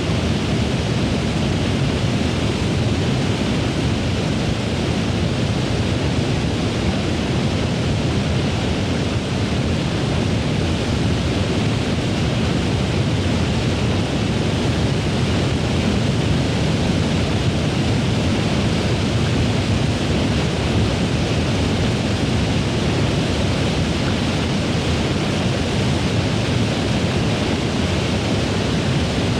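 Waterfall pouring over a high dam: a loud, steady roar of falling water that holds without change.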